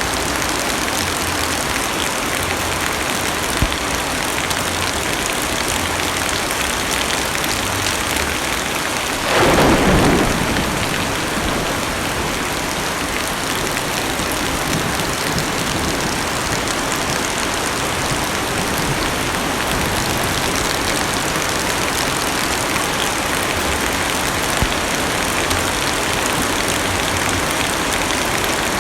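Heavy rain drumming steadily on a car's roof and windows, heard from inside the cabin. About nine seconds in, a louder swell of sound lasts about a second and a half, and two single heavier drops tick sharply, one early and one late.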